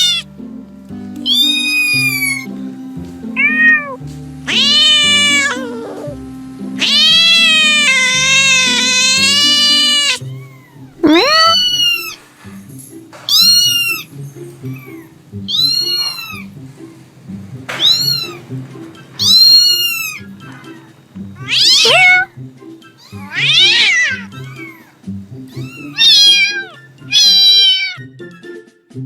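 Domestic cat meowing over and over: more than a dozen separate meows, each rising and then falling in pitch, with a few long drawn-out calls in the first third and shorter ones every second or two after that. Background music plays low beneath the meows.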